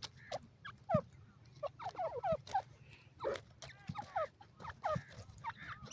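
Teetar (francolin) calling: a rapid series of short notes, each sliding down in pitch, in quick clusters with a few sharp clicks between them.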